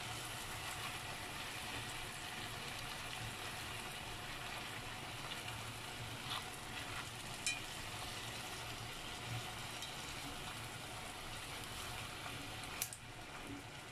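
Chicken wings and pumpkin sizzling in sauce in an enamelled pot, a steady hiss, with a few light clicks of wooden chopsticks against the pot as the pieces are turned, the sharpest near the end.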